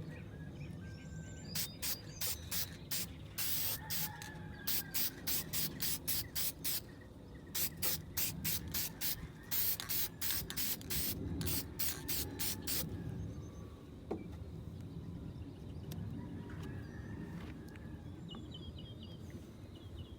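Aerosol can of clear lacquer spraying in many short hissing bursts, several a second, laying on a first clear coat; the spraying stops about two-thirds of the way through.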